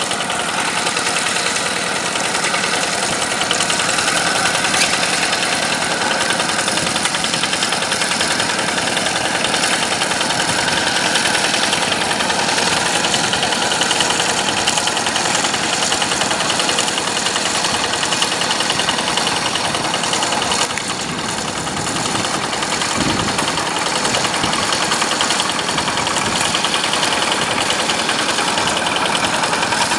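Yanmar diesel engine of a rice-paddy tractor running steadily with a fast, even firing knock, dipping slightly for a moment about two-thirds of the way through.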